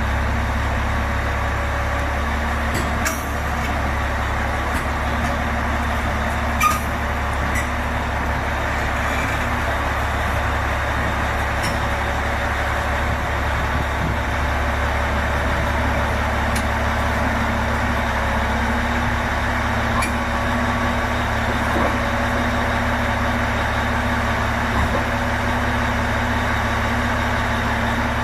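Heavy diesel engine running steadily at a low, even speed, with a few short clicks and knocks over it.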